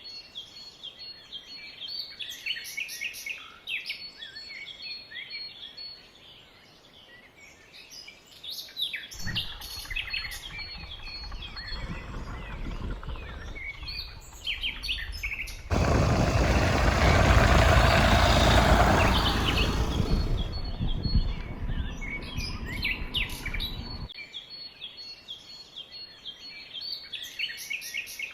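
Many birds chirping and calling in quick, overlapping calls, over a steady high thin tone. Through the middle a louder rumbling noise takes over, with a sudden jump in loudness partway through, then drops away so that the chirping returns near the end.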